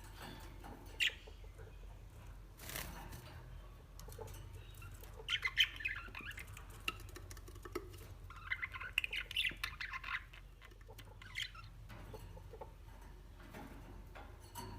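Small birds chirping and squawking in two bursts of rapid, high chirps, one about five seconds in and a longer one around the middle, with scattered short clicks between them.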